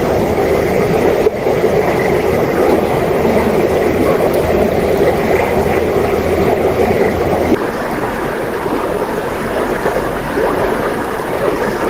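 Mountain river running over rocks, a steady rushing of water. The sound changes slightly about seven and a half seconds in, dropping a little in level.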